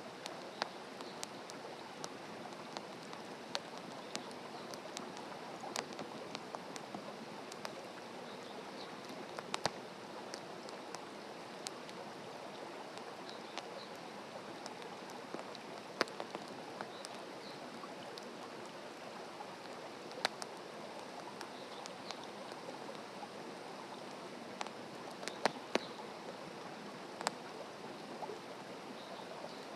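Wood campfire crackling in a fire stand: irregular sharp pops and snaps over a steady hiss.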